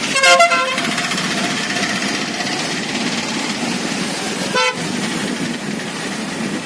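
Vehicle horns honking: a half-second honk right at the start and a shorter one about four and a half seconds in, over a steady rushing background noise.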